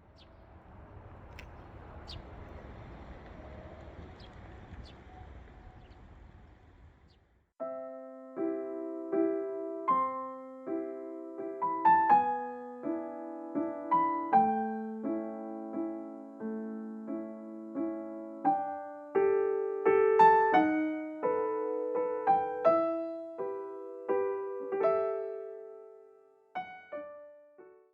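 Steady low background noise with a few faint ticks, then from about seven seconds in a solo piano plays a slow waltz as background music, single notes and chords ringing and fading.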